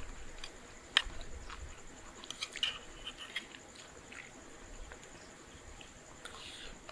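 Steady high-pitched insect trill, like crickets at night, with scattered sharp clicks and small crunches: one loud click about a second in and a cluster around the middle.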